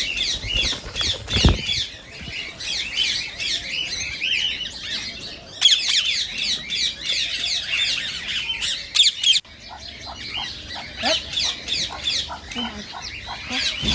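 Indian ringneck parakeets calling in a dense, rapid stream of high-pitched squawks and chatter, breaking off briefly about nine and a half seconds in. A low thump sounds about a second and a half in.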